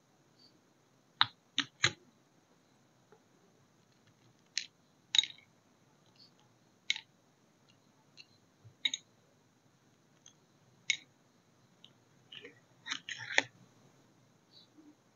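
Scattered sharp clicks and taps from wax-sealing tools and materials being handled, about a dozen in all, with a quick cluster of several near the end.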